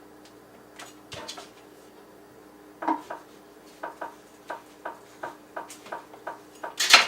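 Kitchen knife knocking and tapping on a cutting board as avocados are cut: a few separate knocks at first, then from about four seconds in a run of light, even taps about three a second, ending in a louder knock.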